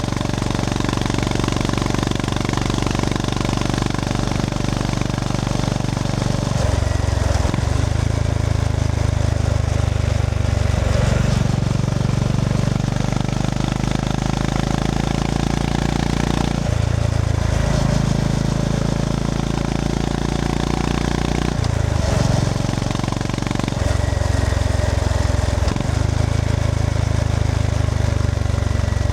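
Honda GB350S's air-cooled single-cylinder engine pulling along the road, its note climbing under throttle and then dropping away sharply several times as the rider rolls off and shifts.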